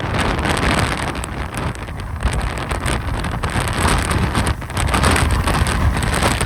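Strong gusty Santa Ana wind rushing and buffeting the microphone, a low rumble with an uneven rise and fall of gusts.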